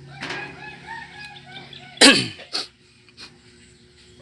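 A rooster crowing, a string of arching calls for about a second and a half. About two seconds in comes the loudest sound, a short sharp burst that sweeps downward, then a smaller one just after.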